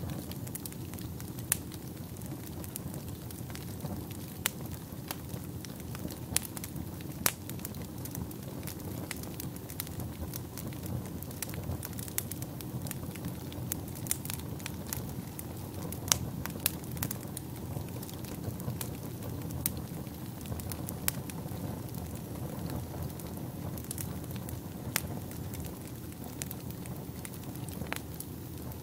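Wood fire burning in a fireplace: a steady low rush of flame with frequent irregular crackles and a few sharper pops.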